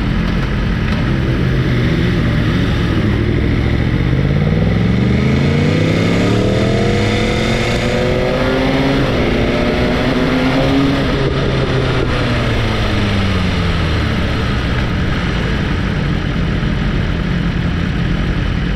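Motorcycle engine idling, then revved up smoothly over about five seconds, held high briefly, and let fall back down to idle.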